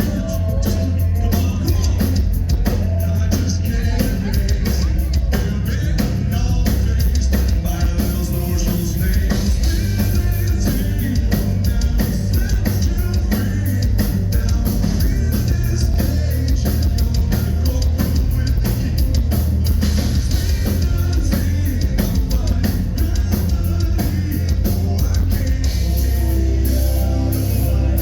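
Heavy metal band playing live at full volume: distorted guitars, bass and a pounding drum kit, with a singer's voice in the mix.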